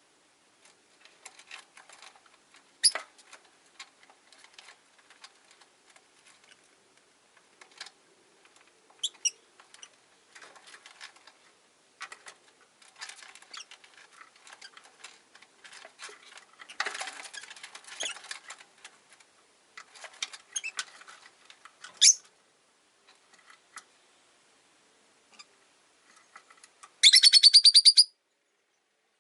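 Rosy-faced lovebirds in a cage: soft scratchy chatter and clicks, broken by a couple of single sharp shrill calls, then a fast run of loud shrill chirps near the end.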